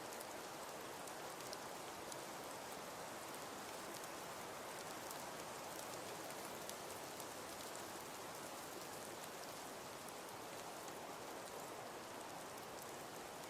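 Wood fire burning in a fireplace: a steady crackling hiss with scattered small pops.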